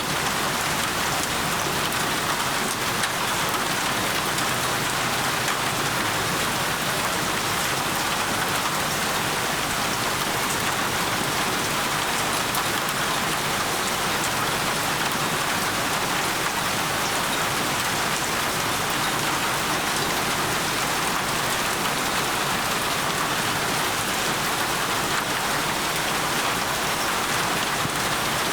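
Steady heavy rain falling on a surface, a dense even hiss with fine scattered drop ticks.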